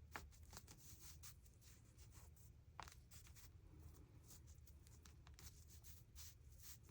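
Faint rustling and light ticks of paper being handled and positioned on a journal page, over a low steady room hum.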